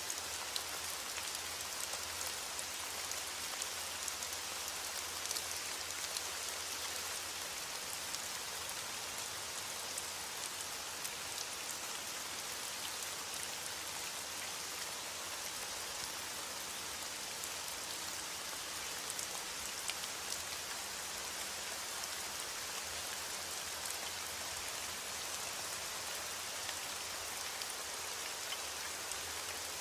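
Heavy rain falling steadily on a window, a dense even hiss with many small scattered ticks of drops, over a steady low rumble.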